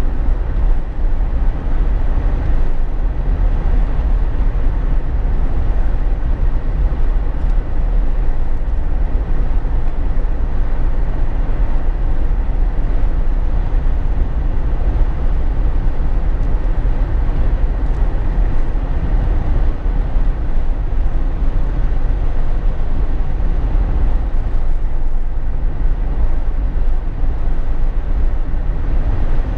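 Steady road noise inside the cabin of a Jeep Wrangler JK under way: a deep, even rumble of engine and drivetrain with a duller hiss of tyres and wind.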